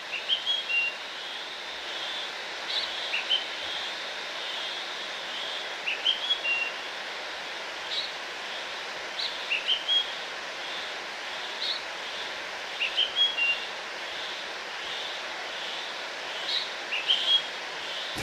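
Birds chirping in short, rising calls that come in small clusters every two to three seconds, over a steady outdoor hiss.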